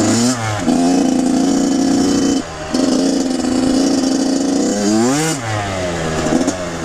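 Kawasaki KX100 two-stroke dirt bike engine running at a steady pitch, dipping briefly about two and a half seconds in, then revving up and falling back about five seconds in.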